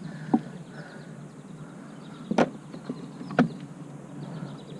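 Three sharp knocks on the kayak while a freshly landed catfish is handled aboard, the loudest about two and a half seconds in, over a faint steady rush.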